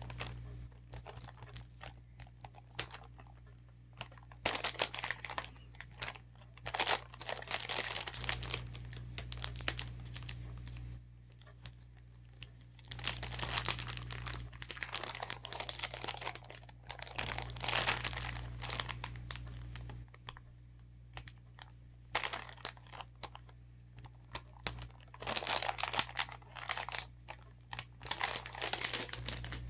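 Packaging of a pop-it toy being crinkled and torn open in repeated bursts of handling, with short pauses between, as it resists opening.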